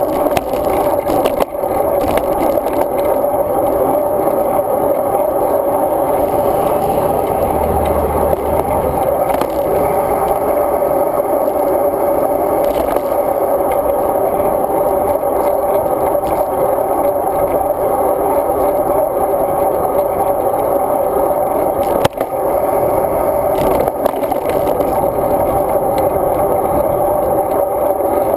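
Road bicycle riding along: a steady rumble of tyres and wind with scraping rattles, and a sharp knock a little over twenty seconds in.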